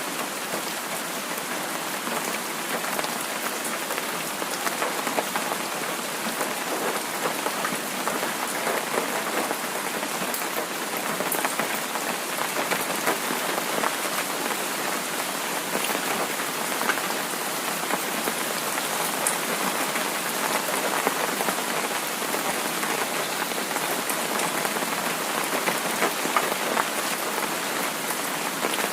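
Heavy rain falling steadily, a dense hiss sprinkled with sharp individual drop taps.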